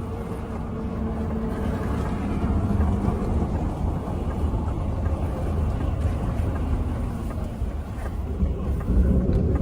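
Steady low rumble of wind and choppy water as the BYD Yangwang U8 moves afloat, with a faint hum in the first couple of seconds.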